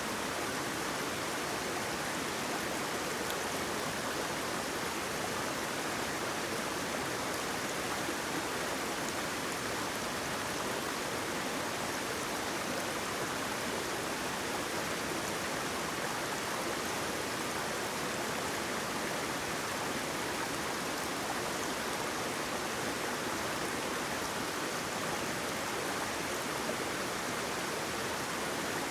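Waterfall splashing steadily, an even rushing hiss of falling water that does not change.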